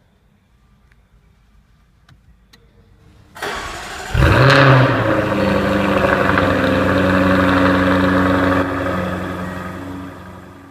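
Jaguar F-Type R Coupe's 5.0-litre supercharged V8 being started: the starter cranks briefly about three seconds in, the engine catches with a short rev flare, then settles into a steady idle that eases off toward the end.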